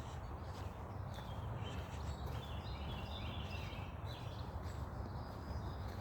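Wild birds calling in a forest: short chirps and warbled phrases, busiest in the middle, over a steady low rumble on the microphone.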